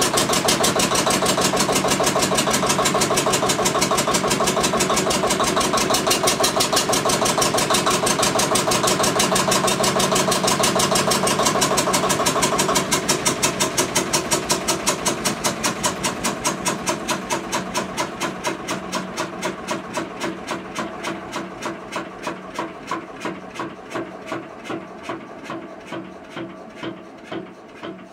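Witte diesel generator engine running with a steady, rapid beat. About halfway through it is shut off, and its beats slow and fade as it coasts down. It was stopped because it wasn't building oil pressure.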